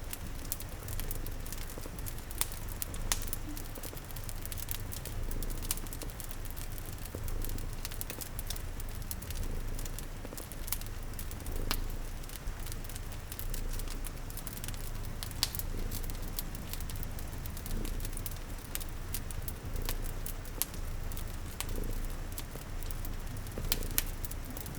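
A cat purring low and steady, layered with a fire crackling in scattered sharp pops and a soft hiss of rain.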